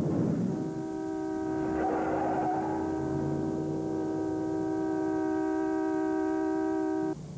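A horn held down, sounding one steady multi-note chord for about six and a half seconds and then cutting off abruptly, over a low rumble.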